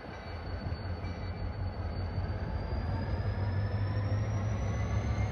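Diesel engine of a rail vehicle running with a steady low rumble, its pitch and a high whine slowly rising as it speeds up.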